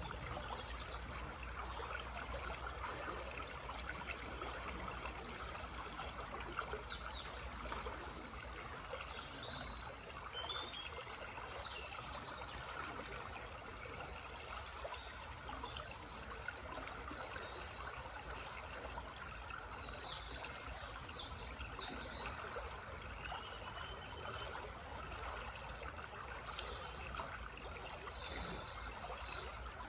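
Small forest stream trickling and babbling steadily, with short bird chirps and calls above it, clustered around ten seconds in, twenty seconds in and near the end.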